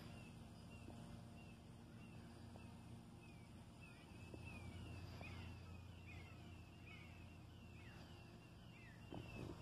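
Faint outdoor quiet with small birds chirping: short falling chirps, roughly one or two a second, over a low steady background rumble.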